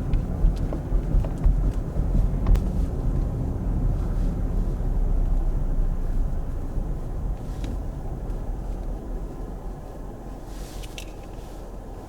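Vehicle road and engine noise heard from inside the car: a steady low rumble with a few faint clicks, gradually quieter toward the end.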